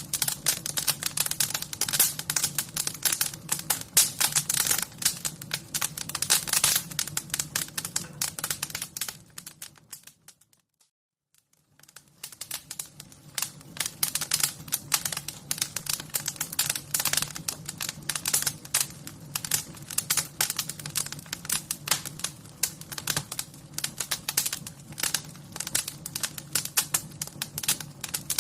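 Wood fire crackling: dense, irregular snaps and pops over a low steady bed. About nine seconds in it fades out to silence, and it fades back in a couple of seconds later.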